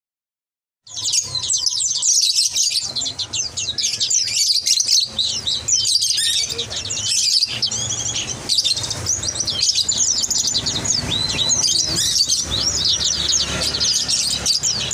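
Many small caged songbirds chirping and twittering at once in a dense, continuous chorus, starting about a second in, over a low background rumble.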